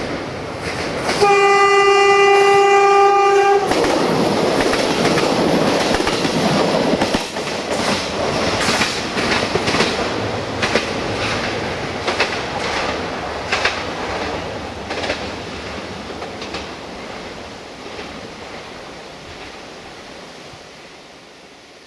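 Diesel multiple unit sounds one steady horn blast for about two seconds, starting about a second in. It then rolls past with a rhythmic clickety-clack of wheels over the rail joints, and the rumble gradually fades as it moves away.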